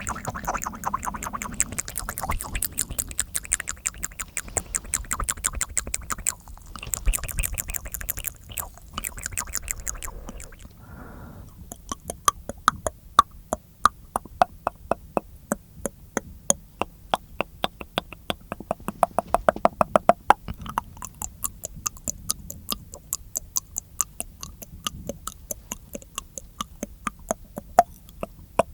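Close-miked ASMR mouth sounds: dense wet clicking and smacking, then, from about twelve seconds in, a run of sharp mouth clicks at about four a second.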